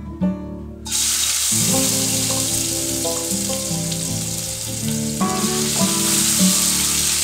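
Masala-coated chicken sizzling as it is spooned into hot oil with whole spices in a pan, the sizzle starting about a second in. Plucked-string background music plays underneath.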